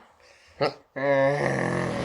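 A person's drawn-out vocal sound lasting about a second and a half: held on one pitch at first, then turning rough.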